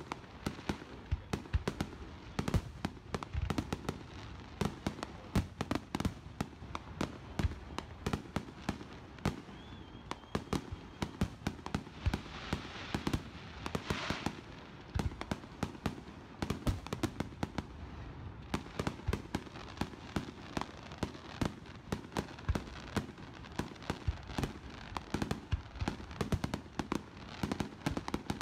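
Aerial fireworks bursting in a rapid, continuous string of bangs, several a second, with a stretch of crackling hiss a little before halfway.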